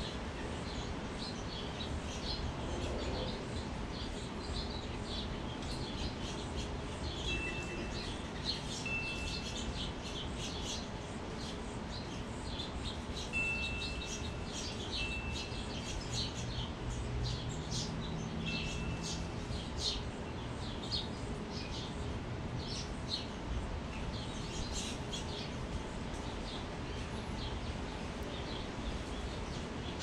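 Many small birds chirping in quick, scattered short calls, with a few short, clear, level ringing tones from wind chimes in the middle stretch, over a steady low outdoor rumble.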